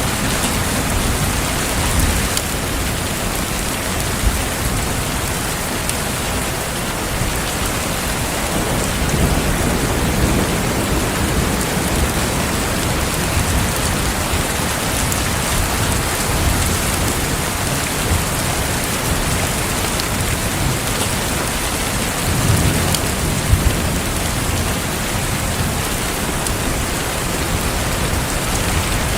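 Heavy rain falling steadily, with low rolls of thunder swelling up about a third of the way in and again near the end.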